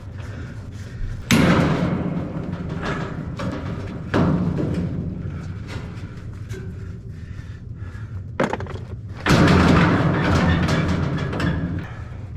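Sheet-metal furnace cabinet being banged and shifted: four loud knocks, about 1, 4, 8 and 9 seconds in, each ringing on briefly, the last and longest for a couple of seconds.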